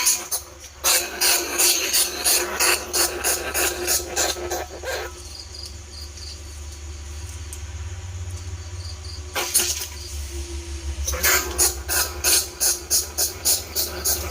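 Greater bandicoot rat squeaking in rapid runs of sharp, high squeaks, about four a second, with a lone squeak between the runs; a steady low hum runs underneath. It is a call used as a lure for bandicoot and field rats.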